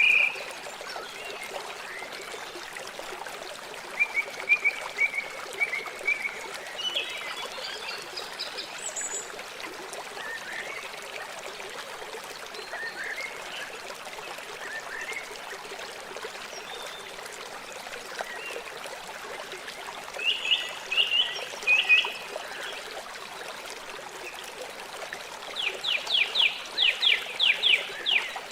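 Steady rush of a flowing river, with bird calls over it: a few short chirps at the start, a run of notes about four seconds in, another cluster a little past halfway, and a fast trill of about ten notes near the end.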